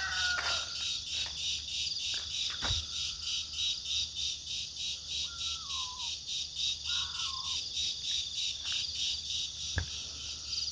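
Forest insects trilling in steady pulses, about three a second. A crowing fowl's call trails off at the start, and a couple of short bird calls come in the middle. Two dull thuds stand out, one early and one near the end.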